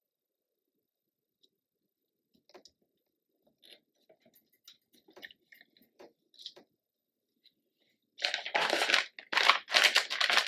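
Faint scattered taps and clicks from handling craft materials, then loud crinkling and rustling that starts about eight seconds in and keeps going.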